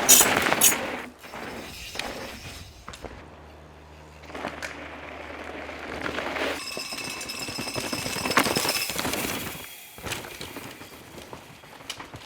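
Mountain bikes racing down a rocky, dusty trail: rapid clattering of tyres over rock, with chains and frames rattling. The loudest bursts come at the start and again past the middle.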